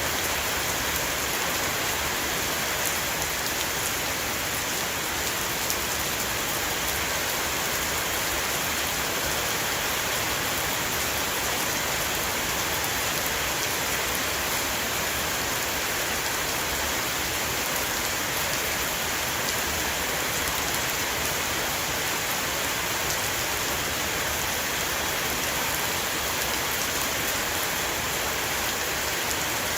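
A rain shower falling on a roof: a steady, dense hiss of rain with countless small drop impacts.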